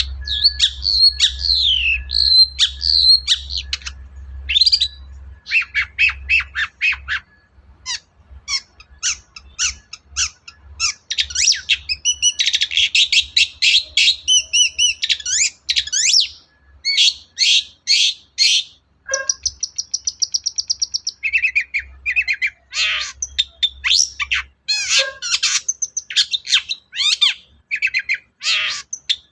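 Long-tailed shrike (cendet) in full song: a fast, varied run of harsh chattering notes, rapid repeated strokes and short whistled phrases that keep changing pitch, mixed with songs it has copied from other birds. A low hum runs underneath and stops near the end.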